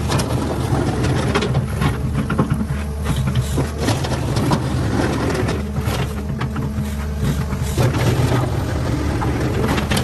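Diesel engine of a Cat 6015B hydraulic mining excavator running steadily under load, with frequent knocks and clatter over it.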